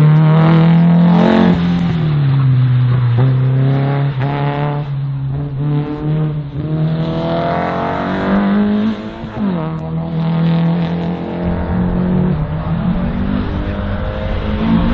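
A competition car's engine revving hard through a slalom run, its pitch climbing and falling over and over as it accelerates, shifts and brakes, with a sharp drop in revs about nine and a half seconds in.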